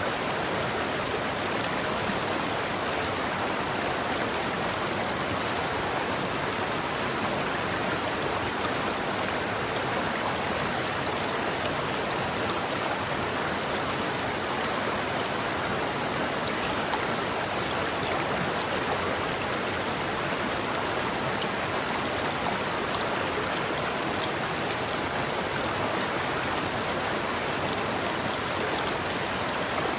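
River water flowing and splashing over rocks, a steady rushing with no let-up.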